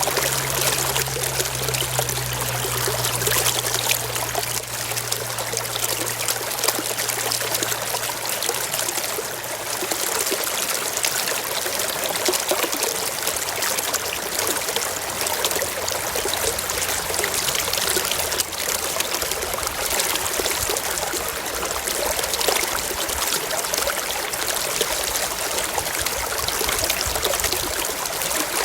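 Small rocky stream running over stones, a steady splashing trickle and rush of water. A faint low hum underneath fades away within the first several seconds.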